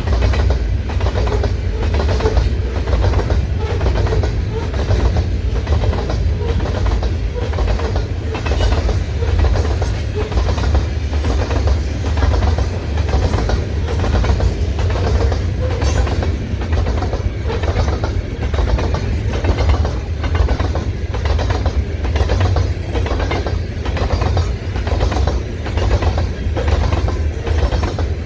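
Freight cars of a long train rolling past, their wheels clicking over rail joints in a steady rhythm about every two-thirds of a second, over a constant deep rumble.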